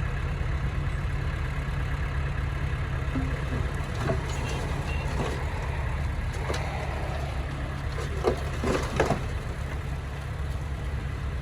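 Heavy-equipment diesel engine running steadily, with a few sharp knocks and clanks between about four and nine seconds in.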